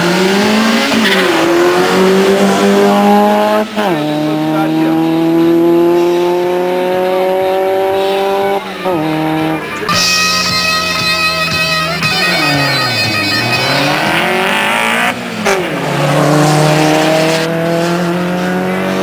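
Drag-racing car engines at full throttle off the start line, the engine note climbing steadily and dropping sharply at each gear change, several times over.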